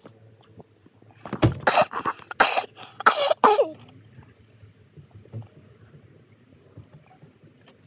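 A person coughing hard, a fit of several coughs starting about a second in and ending with a strained, throaty rasp near four seconds in. A faint steady low hum runs underneath.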